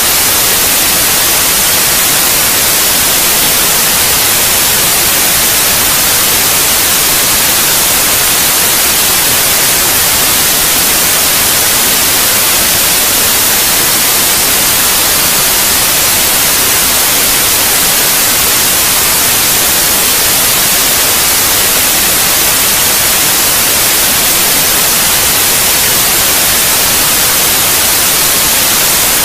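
Steady, loud white noise: an even, unbroken hiss with no changes.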